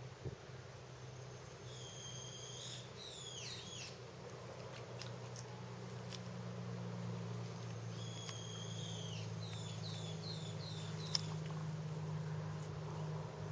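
A bird calling twice, each phrase a held whistled note followed by a quick run of slurred notes, over a steady low hum.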